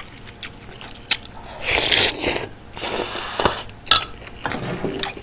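Close-miked chewing of bulgogi hot pot, with a few sharp clicks and two longer noisy bursts of mouth sounds about two and three seconds in.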